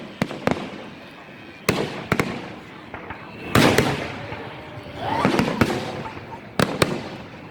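Aerial fireworks of a display going off: a series of sharp bangs, with two longer stretches of crackling bursts in the middle, the loudest about three and a half seconds in.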